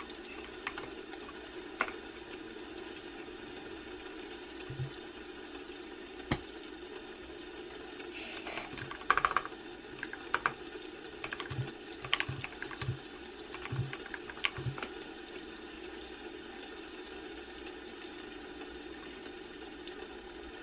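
Computer keyboard typing in short, scattered runs of keystrokes, most of them in the middle stretch, over a steady low hum. The keys stop near the end, leaving only the hum.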